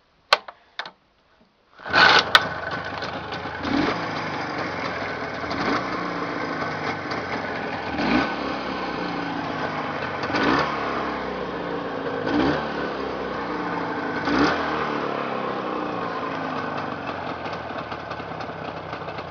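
Jawa 638 motorcycle engine, a two-stroke twin, on a test run: after a few clicks it starts about two seconds in. It is then revved in short blips roughly every two seconds, settling toward idle near the end.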